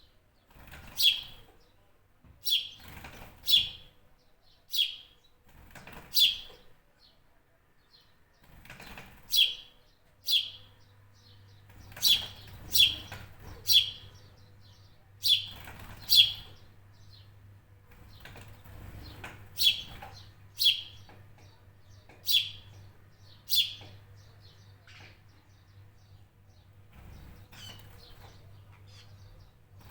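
A bird giving short, sharp chirps, about twenty of them at irregular intervals roughly a second apart, each note dropping steeply in pitch.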